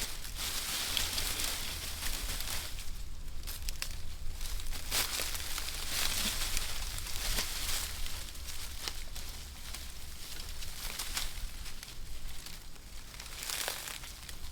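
Dry, fibrous tinder crinkling and rustling as it is handled and crumpled, with many small irregular crackles.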